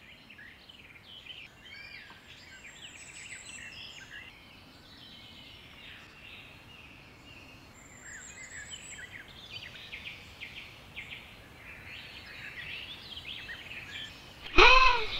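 Woodland birdsong: many small birds chirping and trilling together in a steady chorus. Near the end, a sudden loud, short pitched sound that rises then falls.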